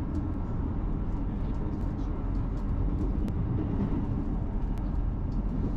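Steady running noise inside the carriage of a ScotRail Class 158 diesel multiple unit under way: a continuous low rumble of engine and wheels on rail, with a few faint clicks.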